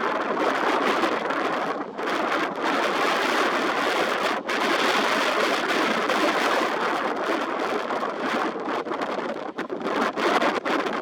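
Strong wind buffeting the microphone over rushing water while sailing, a dense, unsteady rushing that dips briefly a couple of times.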